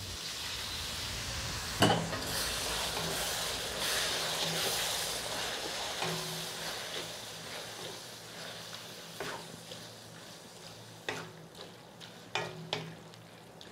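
Boiled goat intestine pieces with a little cooking water tipped into hot oil and onion masala in a metal kadai, sizzling and frying. A wooden spatula stirs them through, knocking against the pan once about two seconds in and a few times near the end, as the sizzle dies down.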